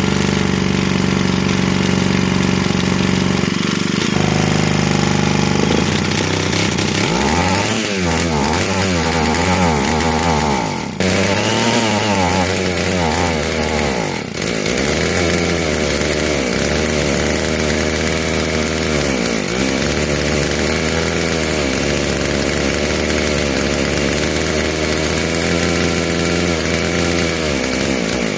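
Stihl 028 Wood Boss two-stroke chainsaw engine running: steady idle at first, then revved up and down several times about a third of the way in, then settling back to a somewhat wavering idle. The saw is being run to test the carburettor after its two mixture screws were reset to 1.5 and 1.25 turns out.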